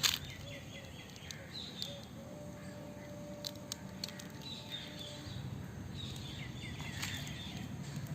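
Birds chirping in short repeated phrases over steady outdoor background noise, with a few sharp clicks scattered through.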